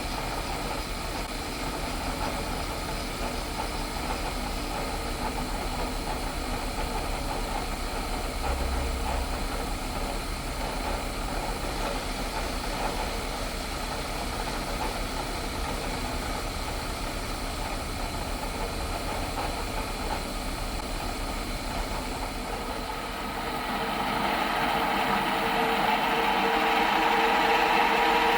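Milling machine running steadily while drilling bolt holes in a steel plate. Near the end the sound grows louder and takes on a stronger whine.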